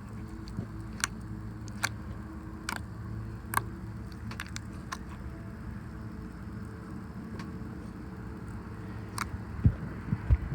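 Scattered sharp clicks and pops of a slime full of beads being squeezed and handled, over a steady low hum, with a few low thumps near the end.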